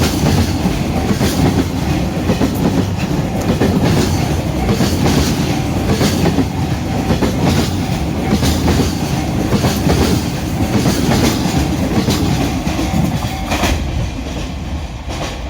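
Freight train wagons rolling past close by, wheels clattering over rail joints in a steady clickety-clack. Near the end the sound drops away as the train disappears into a tunnel.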